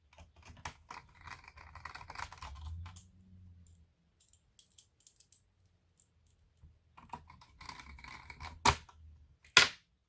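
Rapid small clicks and taps of hands working on a laptop's plastic case and keys, in two bursts with a pause between, ending in two sharp louder clicks.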